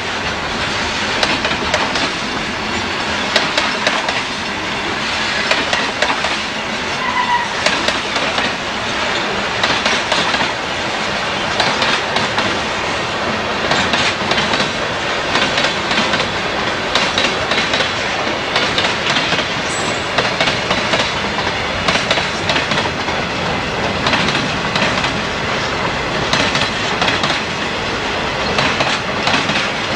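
Freight train cars rolling past, wheels clicking and clattering over the rail joints in a steady, continuous run.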